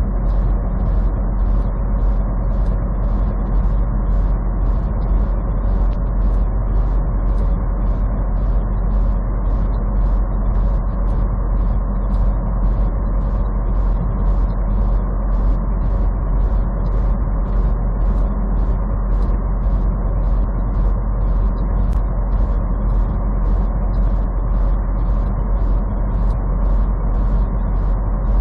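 Steady low rumble of a semi truck cruising on the highway, heard from inside the cab, with a light regular tick about twice a second over it.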